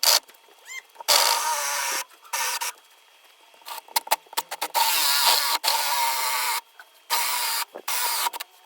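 Electric drill boring into hardwood with a Forstner bit, run in several short bursts of about a second each with brief pauses between, the motor whining under load as the bit cuts.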